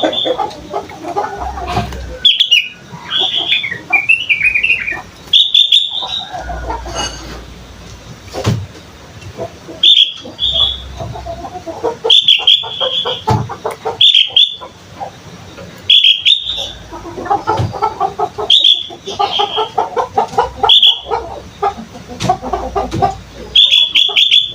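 Young sooty-headed bulbul practising its song: short, sharp, high chirps repeated about every two seconds, with lower chattering notes between them.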